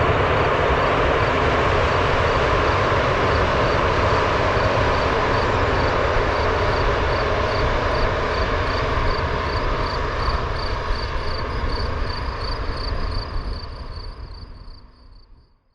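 A passing train: a steady rumble with a faint high ticking about three times a second, fading out near the end.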